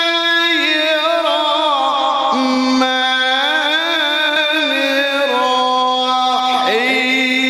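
A man's voice in melodic Quran recitation (tilawah), drawing out long held notes with rapid ornamental turns and slides in pitch, without a break.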